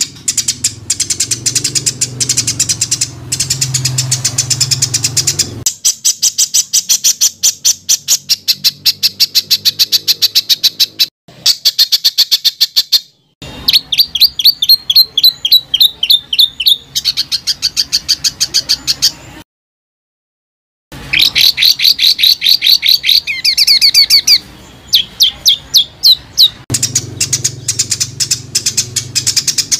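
Songbird rapid-fire calls: dense runs of sharp, fast-repeated chirping notes, spliced together as a bird-song tutor recording. A short gap of silence falls about two-thirds of the way through, and a low hum lies under some passages.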